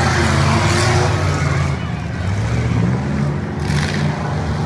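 Demolition derby car engines running and revving on the track, their pitch rising and falling.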